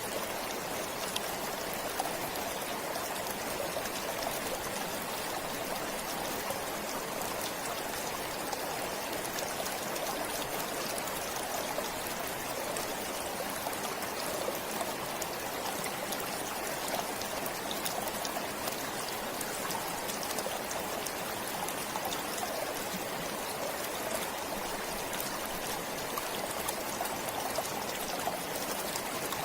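A forest stream flowing and trickling steadily, an even rush of water with small splashes.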